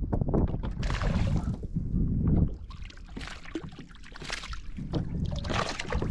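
Wind rumbling on the microphone with water splashing around a kayak, in several short bursts; the rumble eases about two and a half seconds in.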